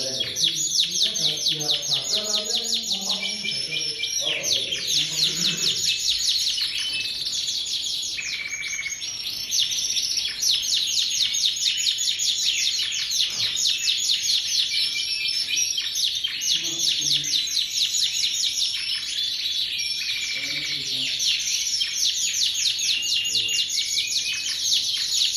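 Domestic canary singing a long, unbroken song of fast rolling trills and chirps, the steady non-stop delivery that canary keepers prize as a 'gacor' bird with long duration.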